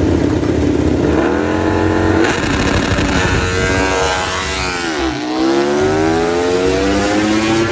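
Racing motorcycle engine revving: the pitch holds steady, then climbs, falls sharply about five seconds in and climbs again, like accelerating through a gear change.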